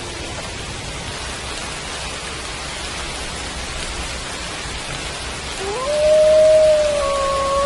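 Steady rain, and about two thirds of the way in a wolf starts a howl that rises in pitch and then holds one long note.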